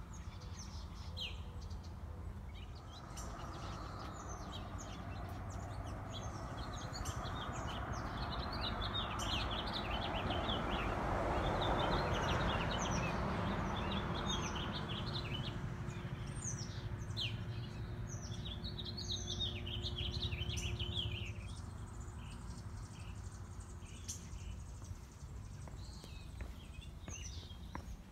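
Small birds chirping and calling over and over, with a broad rushing noise that swells in the middle and fades again.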